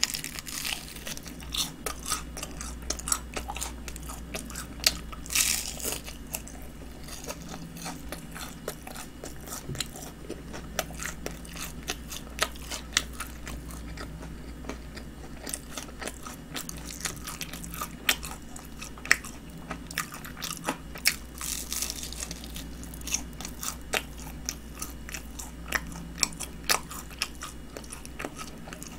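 Close-up eating of crispy honey-glazed fried chicken: crunchy bites and chewing, with frequent sharp crackles and a louder crunch every second or two. A faint steady low hum runs underneath.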